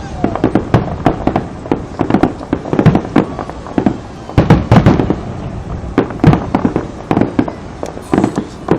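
Fireworks going off in rapid, irregular volleys of sharp bangs and pops, several a second in bursts, with a short echo after each.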